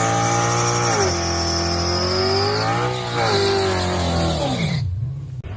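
Drag car engine at full throttle, its pitch dropping sharply about a second in as it shifts gear, then rising and falling away near the end, with a high whine gliding slowly down over the first half.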